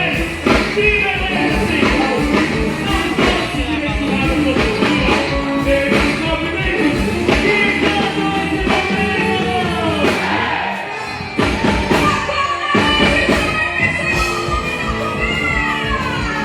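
A band playing live with a singer, beats throughout. The low end drops out for a moment a little past the middle, then the band comes back in.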